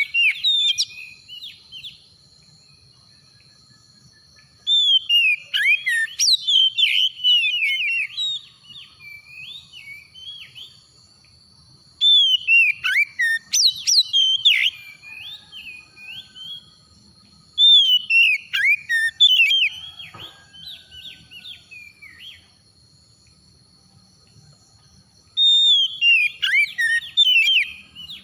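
Oriental magpie-robin (kacer) singing: about five loud bursts of fast, varied whistled phrases, each lasting two to three seconds, with softer twittering between them. A steady high-pitched tone runs behind the song.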